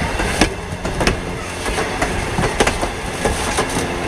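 Railroad car wheels clicking irregularly over rail joints as a train rolls by, over a steady low rumble.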